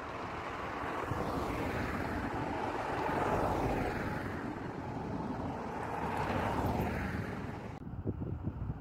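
Road traffic: vehicles passing close by, heard as two swells of tyre and engine noise that rise and fall. The sound thins abruptly near the end.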